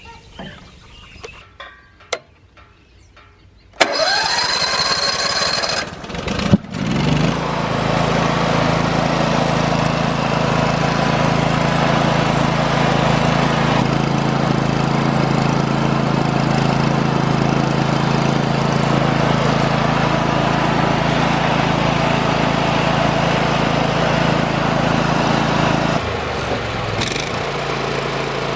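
Hud-Son portable sawmill's gasoline engine being cranked for about two seconds, stuttering, then catching and running steadily. Near the end it drops to a lower, quieter speed.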